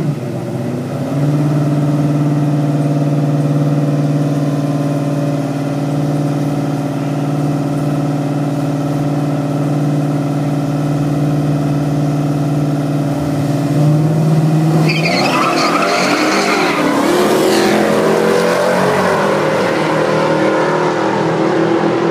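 High-performance car engine held at steady revs, then accelerating hard about fourteen seconds in, with its note climbing and a burst of higher hiss.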